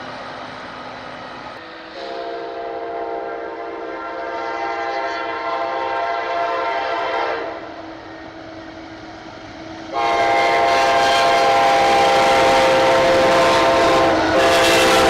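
Locomotive air horn sounding a chord of several notes for a grade crossing: one long blast about two seconds in, then after a short pause a second, louder long blast about ten seconds in, with a brief break near the end, over the rumble of the approaching train.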